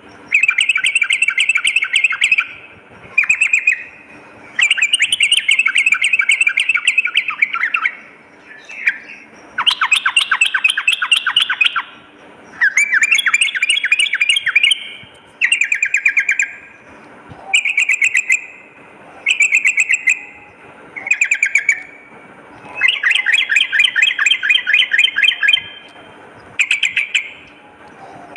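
Yellow-vented bulbul (trucukan) singing: repeated phrases of rapid, bubbly chattering notes, each one to three seconds long, with short pauses between them.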